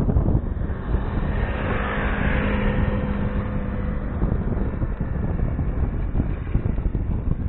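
Wind buffeting the microphone of a bicycle-mounted action camera while riding, with a motor vehicle passing between about one and four and a half seconds in, its engine hum and tyre hiss rising and fading away.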